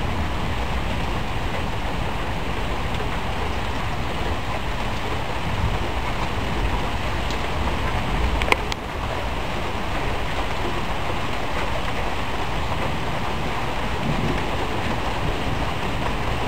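Steady rain falling hard during a thunderstorm, with a single sharp tap about halfway through.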